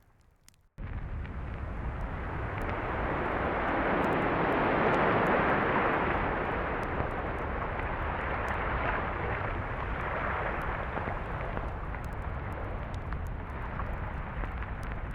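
Ocean surf washing on a beach: a steady rushing that swells for a few seconds and then settles. It cuts in suddenly about a second in, after a brief hush.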